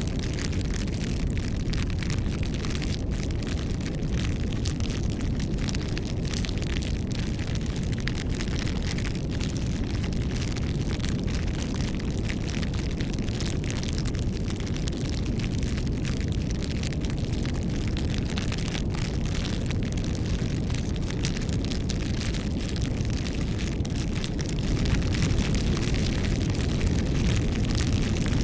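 Wood bonfire burning: a steady low rumble of flames with frequent small crackles and pops, growing a little louder near the end.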